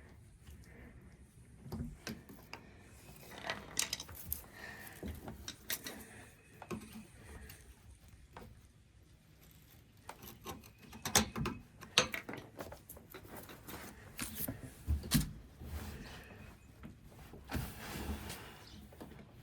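Scattered metallic clinks, clicks and knocks of hand tools and fittings being handled on old plumbing pipework, with two sharp knocks, the loudest, about eleven and twelve seconds in.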